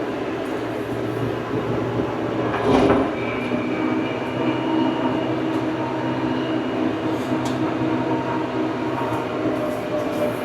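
Tractor engine running steadily, with a louder clunk about three seconds in.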